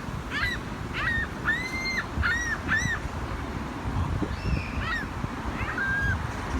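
Gulls calling: a quick run of short, arched squawks in the first three seconds, one of them longer, then two more spaced calls later, over a steady low rumble.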